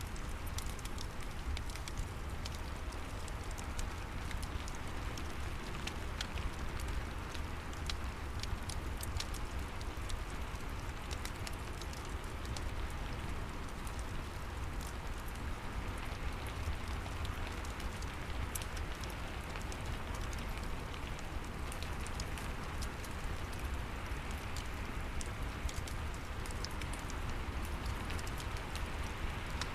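Steady rain with a crackling wood fire: an even hiss with scattered sharp pops and a low rumble underneath.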